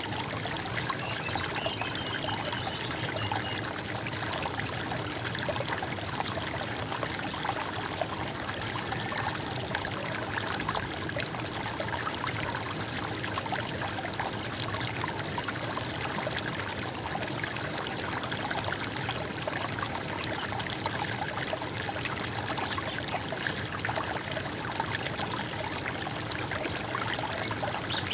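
Running water gurgling and trickling in a steady, unbroken stream.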